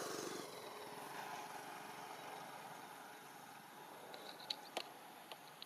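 Faint outdoor background: a steady hiss fading away, then a few short, high clicks or chirps about four to five seconds in.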